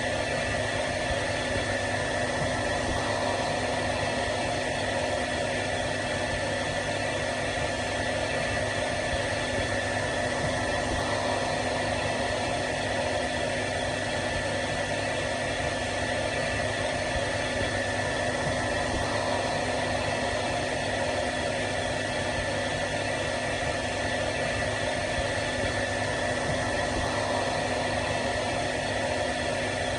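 Hair dryer running steadily: an even rushing noise with a constant high whine and a lower hum under it, unchanging throughout.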